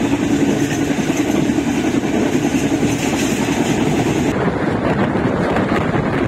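Passenger train running at speed, heard from a coach window: a steady rumble of wheels on the rails mixed with wind rushing past the microphone. A high hiss drops away about four seconds in.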